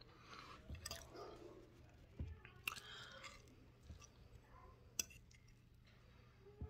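Faint chewing of soft food, chicken enchiladas, with a few sharp clicks.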